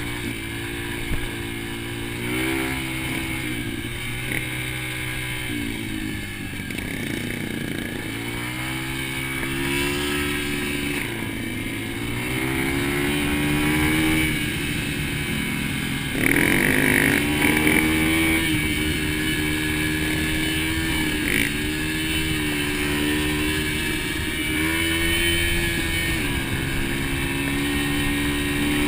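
Dirt bike engine being ridden, revving up and easing off over and over so its pitch keeps rising and falling. It is hardest on the throttle a little past halfway.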